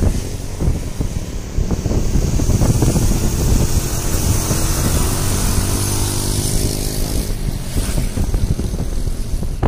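A motor vehicle's engine running steadily while driving along the road, with wind buffeting the microphone.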